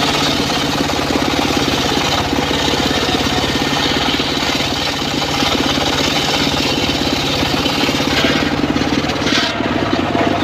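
The engine of a homemade circular sawmill runs steadily with a rapid, even pulse. Its high hiss drops away about nine and a half seconds in.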